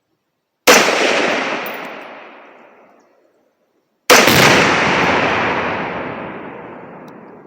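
Two rifle shots about three and a half seconds apart, each a sharp crack followed by a long rolling echo that dies away over a few seconds. These are sighting shots at a paper target, not the tannerite detonation.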